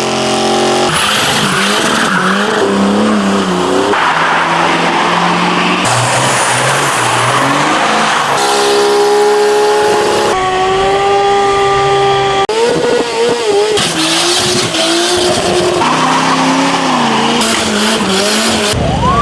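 A quick-cut string of loud V8 muscle-car sounds: engines revving up and down and tyres squealing in burnouts, changing abruptly every second or two.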